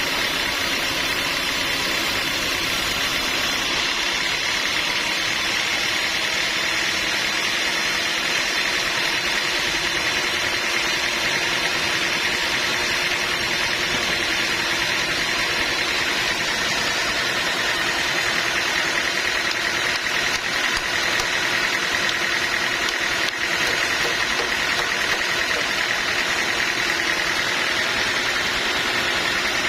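Sawmill machinery running steadily: a continuous mechanical drone with a held, high whine.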